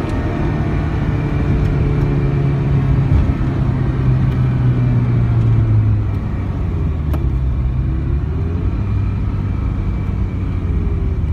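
Ferrari 328 GTS's 3.2-litre V8 engine heard from inside the cabin under way, with road noise. The engine note climbs slowly, drops about halfway through, then rises and dips again near the end.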